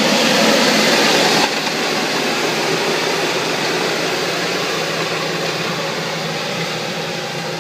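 Tractor engine running steadily under load, pulling a Cross Slot direct drill through a standing mustard crop. The sound drops suddenly about a second and a half in, then slowly fades.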